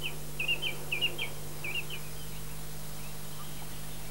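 A small bird singing a quick series of short chirps, about three a second, that stops after about two seconds, with a few fainter calls later. A steady low hum runs underneath.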